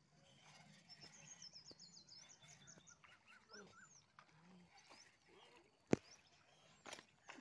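Faint songbird calls: a quick warbling run of high chirps, then a few short rising notes. A single sharp click comes just before six seconds in.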